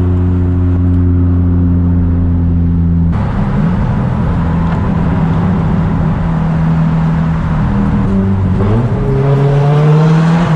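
Nissan Silvia S15's turbocharged SR20DET four-cylinder through a straight-piped exhaust, at first a steady drone while cruising. About three seconds in the sound changes abruptly, then the engine note wanders and climbs steadily near the end as the car accelerates.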